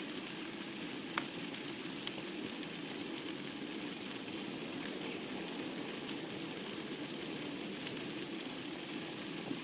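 Wood fire burning in a fireplace: a steady low hiss and rustle with sharp crackles and pops scattered through it, the loudest pop about eight seconds in.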